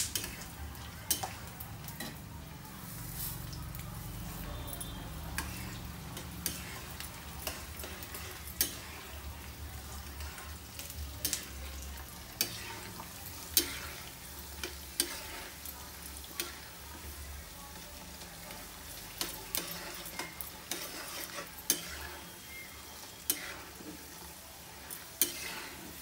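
Peanuts and dals frying in hot oil in a wok, sizzling, for a pulihora tempering, while a metal spatula stirs them, scraping and knocking against the pan at irregular intervals about once a second.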